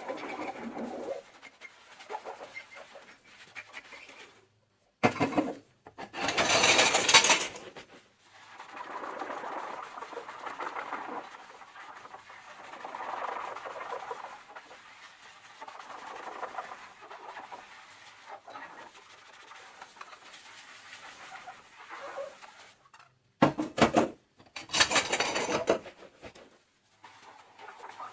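Dishes being washed by hand in a kitchen sink: a soapy sponge squishing and scrubbing in uneven strokes, with two short, loud gushes of running water, one near the start and one near the end.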